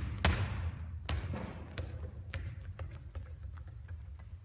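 Basketball bouncing on a hard court floor: a loud bounce about a quarter second in, then a run of bounces that come quicker and fainter as the ball comes to rest.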